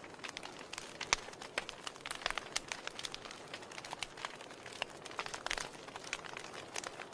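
Wood fire burning in a fireplace, crackling with irregular sharp pops and snaps, several a second, over a soft steady hiss; the loudest snaps come about a second in and near the middle.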